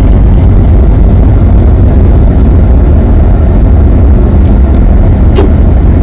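A moving vehicle's road and wind noise: a loud, steady rumble, heaviest in the low end, with no clear engine note.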